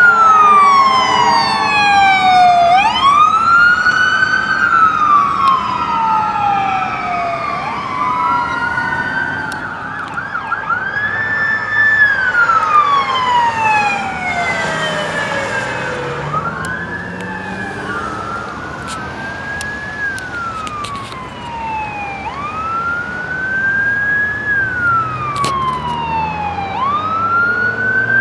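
Several emergency-vehicle sirens in wail mode overlapping, each slowly rising and falling in pitch every four to five seconds, from fire apparatus and a police car responding through an intersection.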